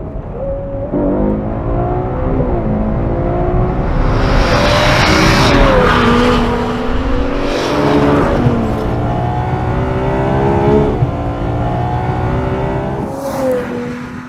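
Ferrari 812 GTS's 6.5-litre naturally aspirated V12 running through a NOVITEC sports exhaust, its pitch climbing and dropping back several times.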